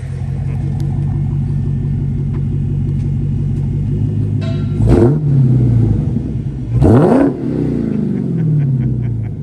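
Supercharged 6.2-litre HEMI V8 of a Dodge Challenger Hellcat Redeye idling through an exhaust with the resonators deleted. It is blipped twice, about five and seven seconds in, each rev rising sharply and dropping back to idle.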